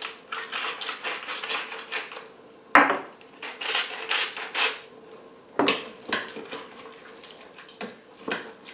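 A salt and pepper grinder being twisted in a quick run of clicks, then a utensil scraping and knocking against the metal inner pot of an electric pressure cooker, with two sharper knocks. A faint steady hum runs underneath.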